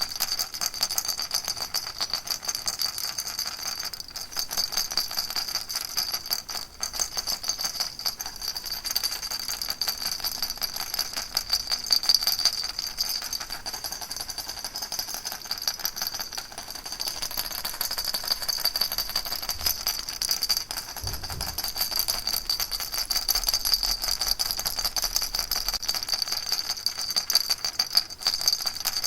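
Baby rattle shaken continuously in a fast, dense, steady rattle with a bright, high edge.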